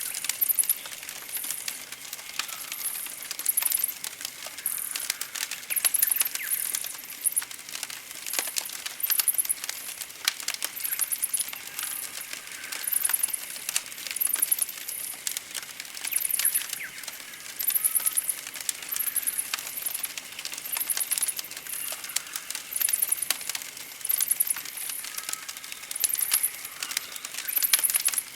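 Campfire crackling with irregular sharp pops and snaps. Over it, a very high, rapid chirping trill repeats about once a second.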